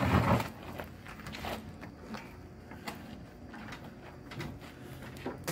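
Faint knocks and scuffs of someone climbing a stepladder, a few scattered steps over a quiet room.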